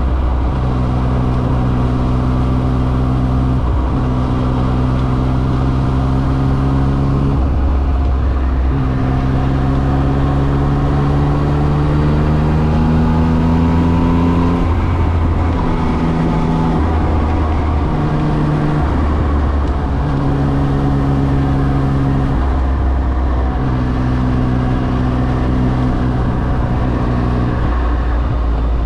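Yamaha XSR900's three-cylinder engine running under way, its pitch climbing slowly under throttle and breaking off to a new level several times as the gears change.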